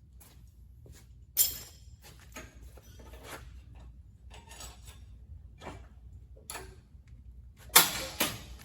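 Irregular knocks, clatters and rustling of objects and packaging being handled, with a sharp knock about one and a half seconds in and two more near the end.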